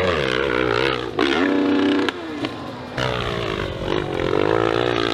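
Dirt bike engines revving hard, their pitch wavering up and down, with the engine sound changing abruptly several times.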